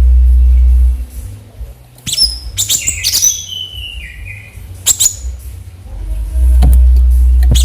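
Cucak cungkok singing: sharp high chirps and a quick run of notes stepping down in pitch about three seconds in, then a few more sharp calls. A loud low rumble sits under the first second and the last second and a half.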